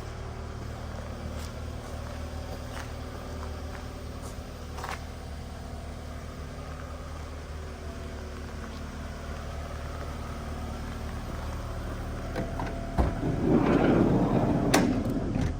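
Mazda Bongo van's engine idling steadily just after a cold start. It runs quiet, with no abnormal noises. A louder burst of noise comes near the end.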